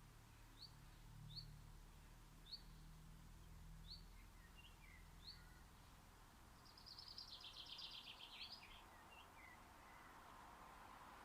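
Faint birdsong: single short, high, upward-flicking chirps repeated at intervals of about a second, other birds calling more softly, then a rapid trilling phrase of about two seconds past the middle. A low steady hum runs underneath.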